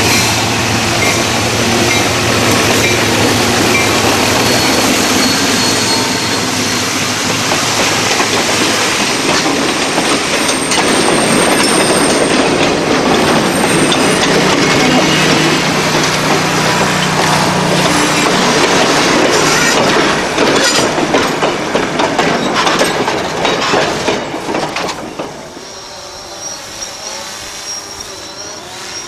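Alco RS-18u diesel locomotive and its train passing close by: the locomotive's engine hums loud at first, then the cars roll past with wheels clacking over rail joints. About 25 seconds in the sound drops to a much quieter, more distant train.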